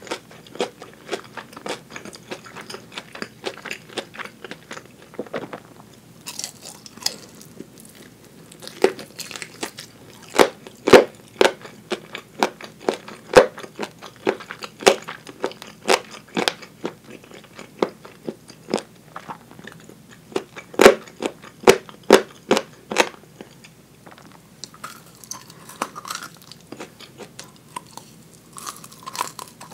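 Close-up chewing and biting of crispy fried chicken (tulip karaage): a steady run of crackly crunches, with louder clusters of bites about a third of the way in and again about two thirds in.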